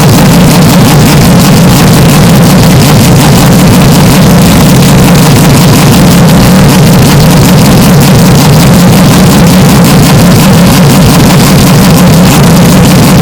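Race car engine running at a steady pitch, with no pass-by rise and fall, the recording boosted into constant heavy distortion and clipping.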